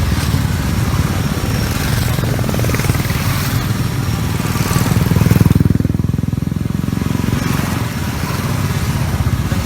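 Motorcycle engines running, a continuous loud drone with a swell a little past halfway.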